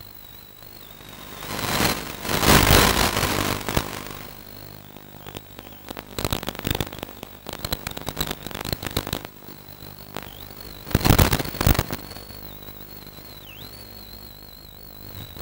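Radio-controlled model airplane's motor whining at a high pitch that wavers up and down with the throttle. Rough, crackling bursts of wind buffet the onboard camera's microphone about two seconds in and again near eleven seconds.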